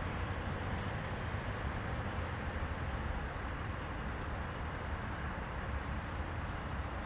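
Hitachi Class 800 train, a steady low rumble with an even hiss over it and a faint thin high whine, unchanging throughout.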